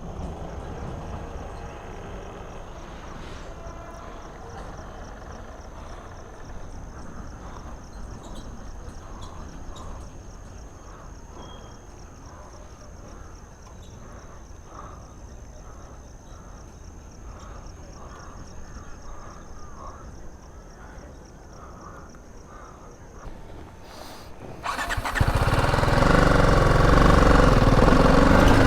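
Quiet outdoor background with a faint, steady high-pitched tone. About 25 seconds in, a BMW G 310 GS motorcycle's single-cylinder engine starts and settles into a steady idle.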